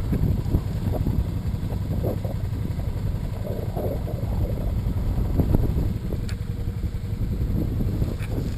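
Motorcycle on the move: engine noise under heavy wind buffeting on the microphone.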